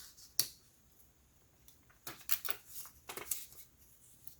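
Light clicks and scrapes of a screwdriver and small laptop parts being handled at the cooling fan: one sharp click about half a second in, then a cluster of quick clicks and scrapes about two to three and a half seconds in.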